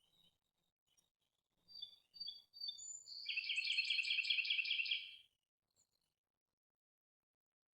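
A bird calling: a few short high notes, then a rapid run of repeated pulsed notes lasting about two seconds.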